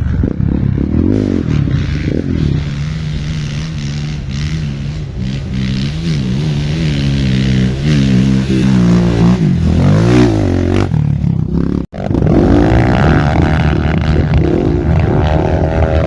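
Off-road motorcycle engine running and revving, its pitch rising and falling. The sound breaks off for an instant about three-quarters of the way through.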